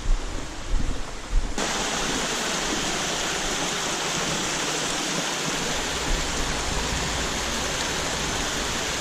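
Wind buffeting the microphone for the first second and a half, then a sudden switch to the steady rushing of a mountain stream's fast water.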